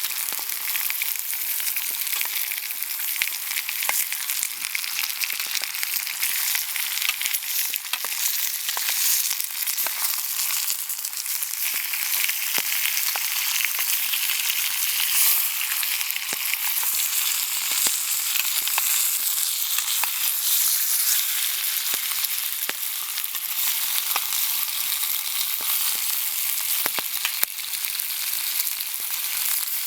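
Food sizzling as it fries in a pan, a steady hiss with frequent small pops and crackles.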